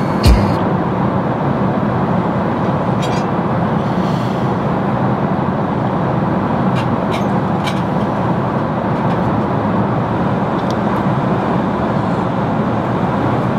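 Steady roar of an airliner cabin at cruise, a constant rush of engine and airflow noise, with a few faint light clicks.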